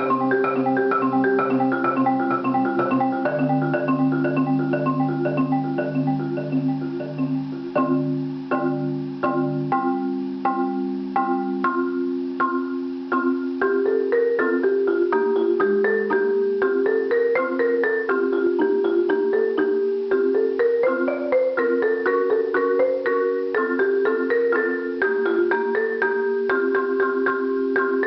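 Solo marimba played with mallets in fast, even repeated strokes. A low bass note sounds under the upper notes for about the first ten seconds, then the figures climb and fall in repeating waves.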